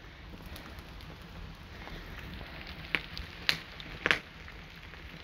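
Steady rain with a campfire, and three sharp cracks a little past the middle, about half a second apart.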